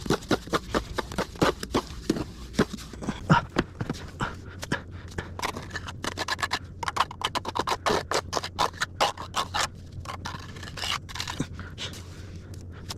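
Hand tools working wet cement mortar: a long run of quick, irregular scrapes and clicks.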